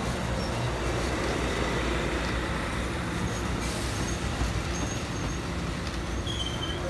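Amtrak Pacific Surfliner passenger train passing, its bilevel coaches rolling by on the rails with a steady rumble.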